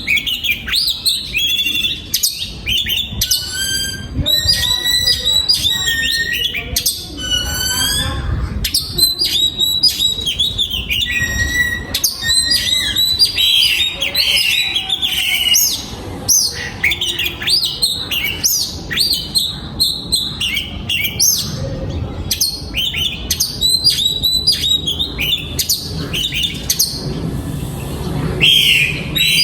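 Oriental magpie-robin singing: a continuous, varied run of clear whistles, trills and chirps.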